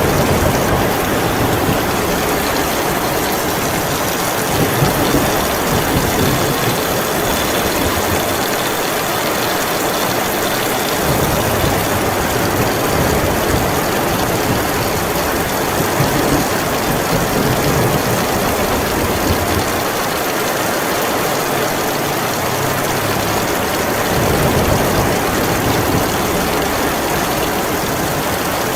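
Heavy rain falling steadily, with a low rumble underneath that swells and eases several times.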